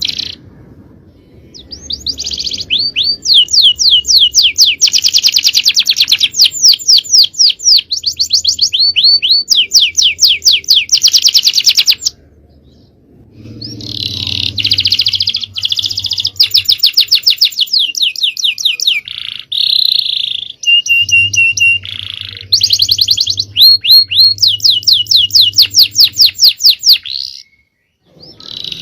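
Male domestic canary singing long, fast trills and rolls in loud phrases, with short breaks between bursts.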